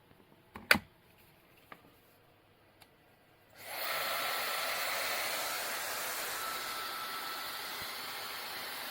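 A few handling clicks, then about three and a half seconds in a 1400 W brushless-motor hair dryer switches on and runs with a steady rush of air and a faint high whine.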